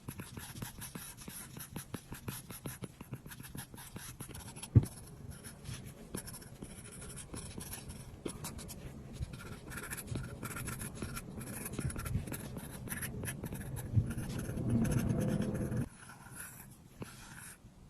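Apple Pencil tip tapping and scratching on an iPad's glass screen in quick strokes while drawing, with one sharper tap about five seconds in. Near the end comes a louder stretch of rubbing lasting about a second and a half.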